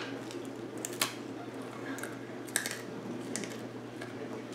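Hardtack, a very hard dried flour-and-water biscuit, being bitten and chewed after a soak in water and still dry: two sharp cracks about one and two and a half seconds in, with fainter crunching clicks between.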